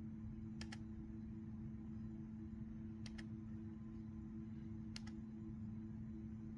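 Faint computer mouse clicks: a double click about a second in, another double click about three seconds in, and a single click about five seconds in, as a MIDI port setting is toggled off and on. A steady low electrical hum sits underneath.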